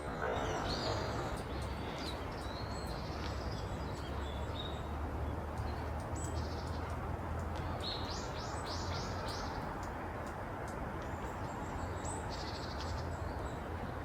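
Wild birds calling and chirping in high short notes, with a quick run of about five notes around eight seconds in and another burst a few seconds later, over a steady low background rumble.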